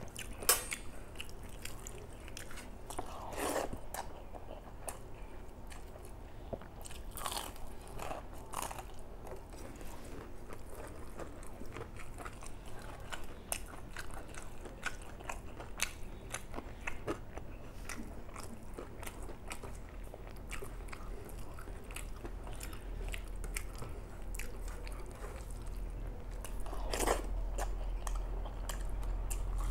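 A person eating big mouthfuls of rice and curry close to the microphone: steady wet chewing and mouth clicks, with a few louder crunchy bites, one a few seconds in, a couple around eight seconds in and one near the end.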